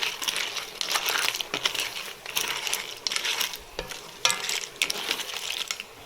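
Hard kitchen items clattering and clinking in repeated bursts, each about a second long with short pauses between.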